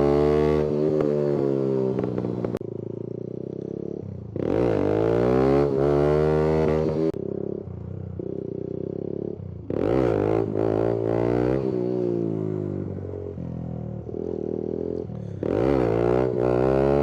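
Kawasaki Z125 Pro's small single-cylinder engine revving hard in four bursts, each climbing in pitch and falling away, as it is clutched up for wheelies. Between the bursts it drops back to a lower, quieter steady running note.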